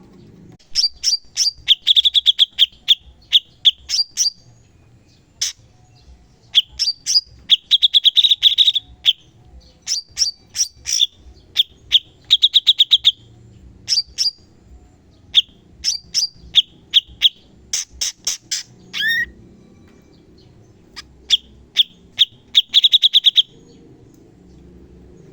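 Cucak cungkok songbird singing its rapid-fire 'tembakan' song: repeated bursts of fast, sharp, high chattering notes, each burst under a second long, with short pauses between them.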